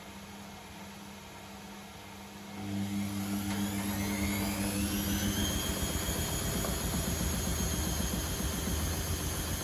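Top-loading washing machine (Privileg Sensation 952 S): a steady low hum, then about two and a half seconds in the drum motor starts and spins up, its whine rising for a few seconds and then levelling off at a steady high pitch as the drum reaches spin speed.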